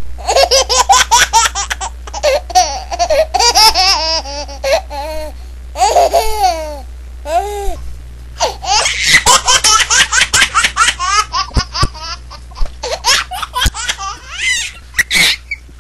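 A baby laughing hard in quick, repeated high-pitched peals, with a short lull about halfway through.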